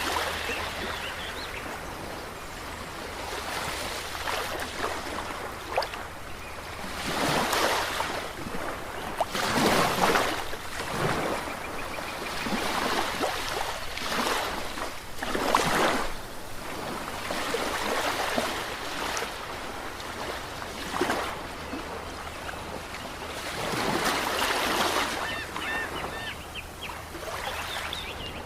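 Ocean waves breaking and washing onto a shore, swelling in irregular surges a few seconds apart over a constant hiss of surf.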